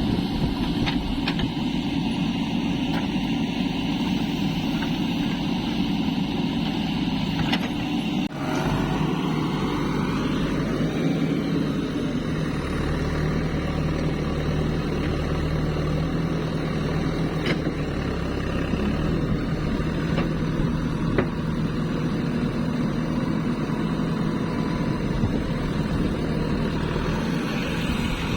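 Heavy diesel machinery engine running steadily. About eight seconds in, the sound briefly dips and changes, then a whine rises in pitch and settles into a steady run.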